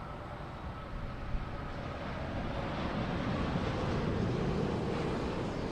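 Boeing 787-9 Dreamliner's Rolls-Royce Trent 1000 turbofan engines on final approach to land: a broad jet rumble that swells to its loudest about three to five seconds in and eases off near the end, with a faint steady whine over it.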